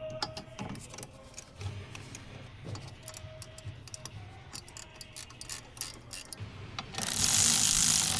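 Hand tools and plastic and metal parts clicking and knocking lightly while coolant-valve fittings are worked on. About seven seconds in, a much louder, dense run of rapid ratcheting starts.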